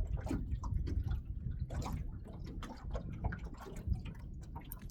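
Water splashing and dripping, with scattered irregular clicks and knocks.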